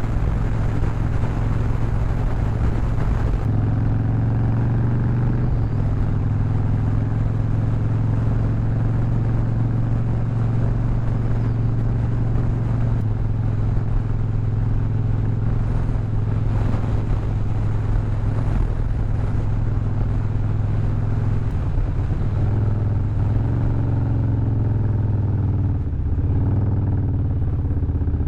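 Harley-Davidson motorcycle's V-twin engine and exhaust running steadily under way. The engine note shifts slightly a few times and dips briefly near the end.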